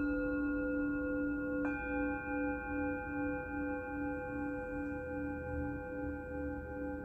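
Singing bowls ringing in long sustained tones that pulse in a steady wavering beat. A bowl is struck again about two seconds in, adding higher ringing tones.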